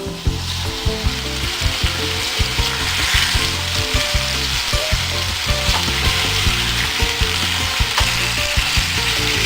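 Chicken pieces seasoned with curry powder and coconut milk sizzling as they fry in a pan, a steady hiss that swells up just as it begins.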